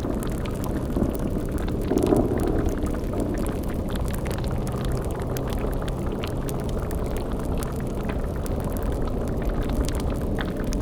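Layered horror ambience: a steady low rumble under a bubbling, boiling cauldron, with light crackling throughout. A louder swell rises about two seconds in.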